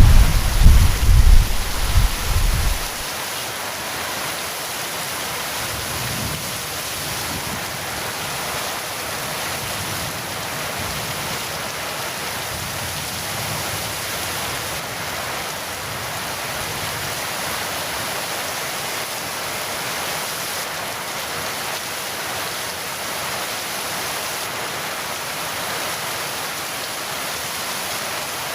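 Thunder rumbling, cutting off suddenly about three seconds in, then heavy rain falling steadily.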